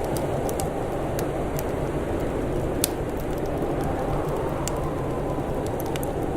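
Wood fire crackling, with sharp irregular pops and one louder pop about three seconds in, over a steady low rush of wind.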